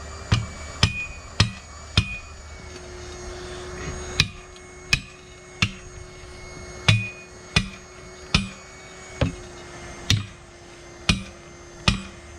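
A series of about fourteen hammer blows on metal, roughly one a second with a short pause early on, each with a brief ringing clang. The blows come while a truck tire's bead is being worked over the lip of its steel rim with tire irons.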